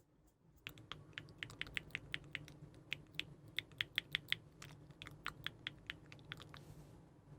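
Rapid, uneven light tapping clicks, several a second, starting about a second in and stopping shortly before the end, over a faint steady low hum.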